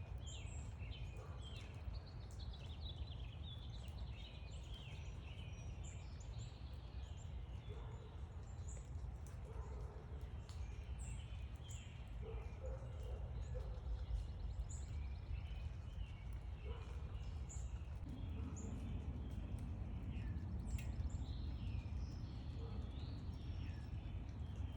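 Several small backyard birds chirping and calling in short, scattered notes, some quite high, over a steady low background rumble.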